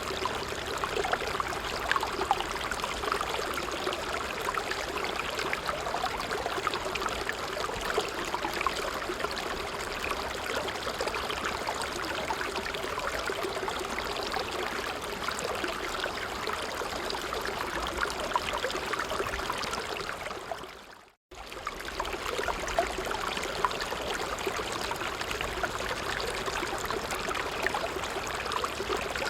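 Small stream babbling over stones: a steady rush of running water with fine trickling and splashing. About twenty seconds in it fades away to near silence and comes straight back within a second.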